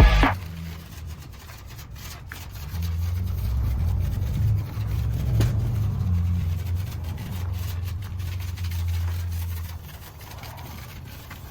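Dodge Scat Pack's 6.4-litre V8 running at low revs with a low, steady rumble. It swells a couple of seconds in and fades away near the end.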